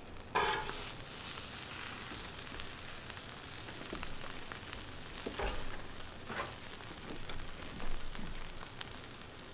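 Food frying on a Blackstone flat-top griddle: a steady sizzle, with a few brief louder noises over it.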